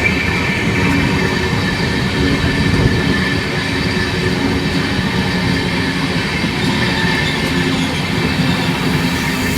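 Indian railway train running past on the rails: a steady, loud rumble of wheels and wagons, with thin high wheel squeal over it.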